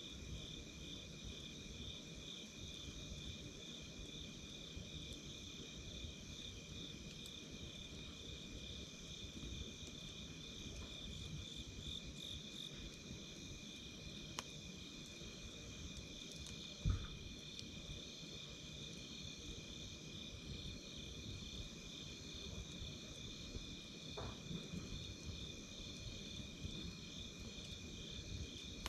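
Night insects calling steadily in a continuous chorus, one high trilling note pulsing rapidly over another steady one. Now and then a campfire crackles, with one sharp pop a little past the middle.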